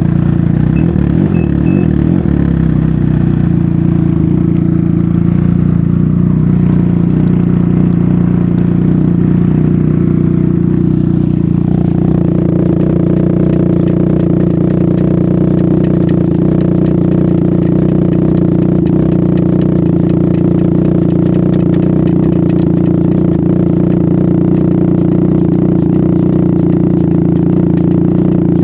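Can-Am Ryker Rally's Rotax 900 ACE three-cylinder engine idling steadily through an RLS Twin Kaos exhaust with its baffle removed, loud. About twelve seconds in, the note shifts and takes on a harsher upper edge.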